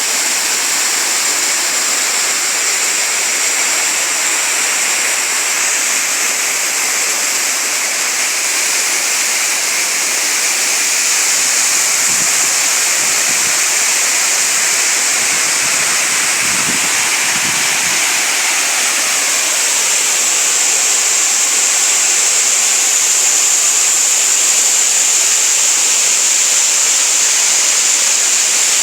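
Waterfall pouring into a rocky stream, a steady loud rush of falling and running water. There are faint low rumbles about twelve seconds in and again around the middle.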